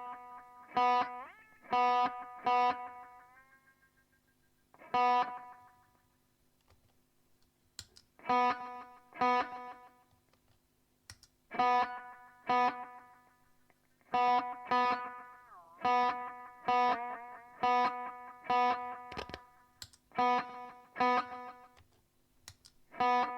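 Electric guitar played through a delay effects pedal: chords struck in short groups, each ringing out and fading, with a few notes bent in pitch and pauses between phrases.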